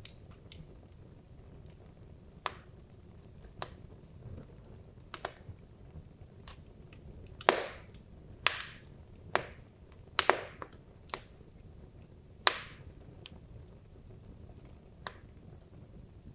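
Wood logs burning in a fireplace, crackling with irregular sharp pops over a faint, steady low rumble of the fire. The loudest pops come close together in the middle.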